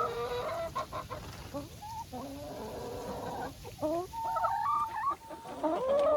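Domestic hens clucking and calling, several short overlapping calls with sliding pitch throughout.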